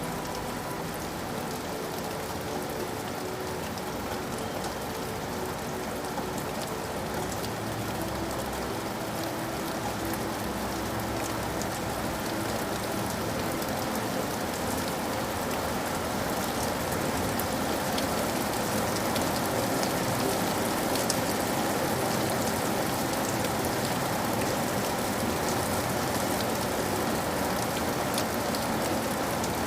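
Steady rain falling, with a dense hiss and scattered drops striking a surface, growing slightly louder over the stretch.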